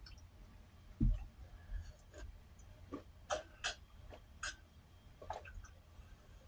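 Close-miked eating mouth sounds: scattered wet clicks and smacks while chewing, with a low thump about a second in.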